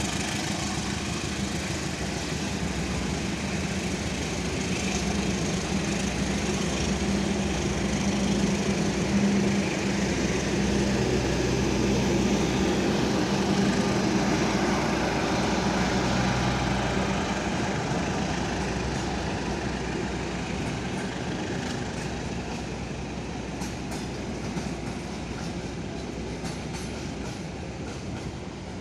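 A train passing through a station: a steady low engine drone swells and then fades, with sharp wheel clicks over rail joints in the later part.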